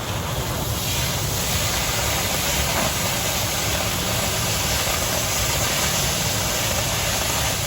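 Oxy-fuel cutting torch cutting through 1/4 inch steel plate: a steady, even hiss of the flame and cutting-oxygen jet.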